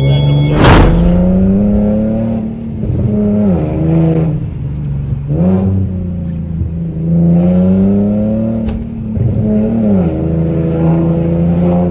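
Infiniti G37's 3.7-litre V6 heard from inside the cabin, its revs climbing and dropping back several times as the car accelerates hard through the gears, then holding steadier near the end. A short loud whoosh about half a second in is the loudest moment.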